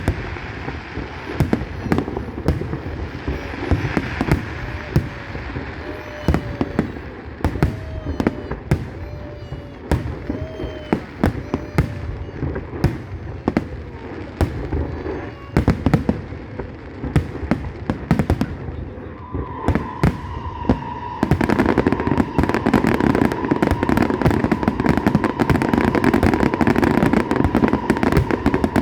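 Aerial fireworks going off in a rapid run of irregular bangs, with short whistling arcs among them. About two-thirds of the way through, the display swells into a denser, louder barrage of crackling bursts.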